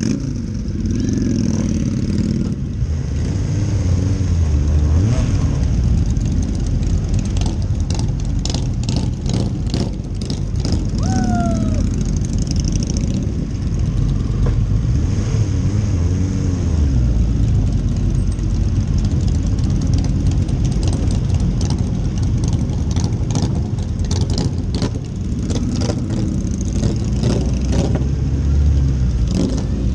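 Motorcycle engines of a slow group ride, heard from the rider's own bike, running at low speed and swelling and easing as the bikes pull forward and slow in the queue.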